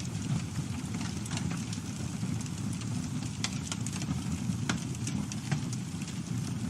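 Wood campfire burning with a steady low rumble, broken by sharp, irregular crackles and pops from the burning wood.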